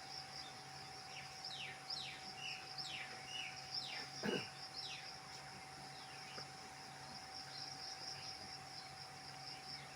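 Night insects such as crickets chirring in a steady high pulsing trill. A run of quick falling whistle-like calls comes through it, the loudest about four seconds in, sweeping from high to low.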